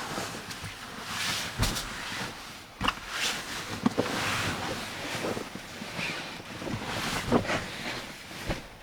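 Typhoon wind and rain gusting against a kei van, the noise swelling and easing every second or two, with a few sharp knocks scattered through it.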